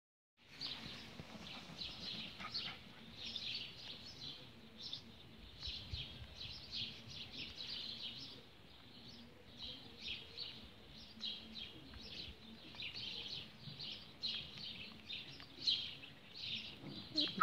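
Small birds chirping: many short, high chirps in quick irregular runs, over a faint low background hum.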